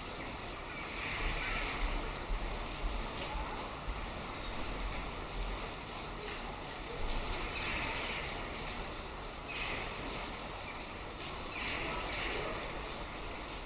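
Steady rain falling, an even hiss with a few brief louder swells.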